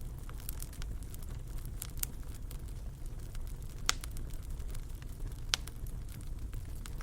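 Wood fire crackling in a fireplace: scattered sharp pops and snaps over a steady low rumble, the two loudest pops about four and five and a half seconds in.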